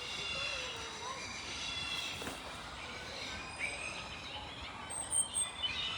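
Many birds chirping and calling at once, high-pitched and overlapping, over a steady background hum of noise; sharp high chirps stand out near the end.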